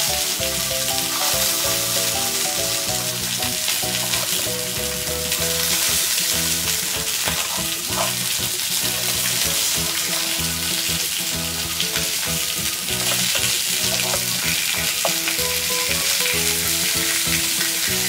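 Marbled beef loin steak sizzling steadily on a hot iron griddle plate, with a few sharp clicks as a blade and metal tongs cut the meat into strips.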